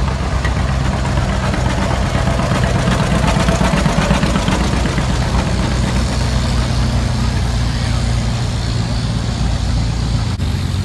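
Large farm tractor engine running steadily, a deep even engine note under a layer of outdoor noise.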